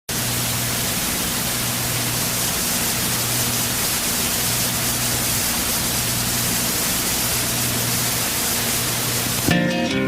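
Steady hiss of heavy rain, with a faint low hum underneath; a plucked acoustic guitar comes in near the end.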